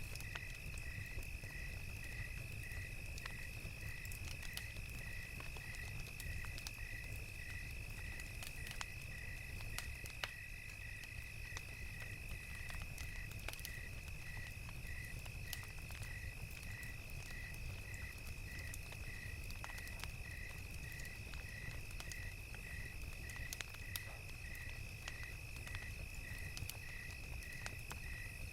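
Crickets chirping in an even, repeating rhythm a little under twice a second over a steady high insect trill, with the scattered small pops of a crackling campfire and a low, steady rumble beneath.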